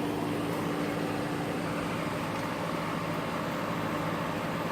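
A steady machine hum with a few held tones over a noisy background.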